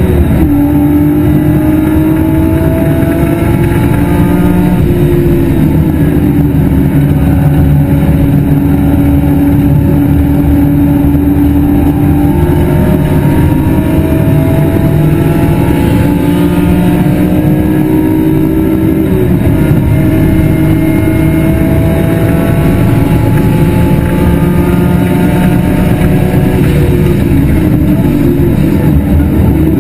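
BMW E46 M3's 3.2-litre inline-six running hard under racing load, its pitch climbing slowly and dropping sharply a few times at gear changes, about five seconds in, near twenty seconds and near the end.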